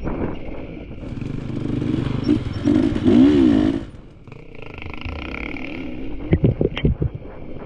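Enduro dirt bike engine revving under the rider, its pitch wavering up and down with throttle and loudest about three seconds in, then dropping off throttle about a second later. Near the end comes a quick run of sharp knocks and clatter from the bike over rough trail.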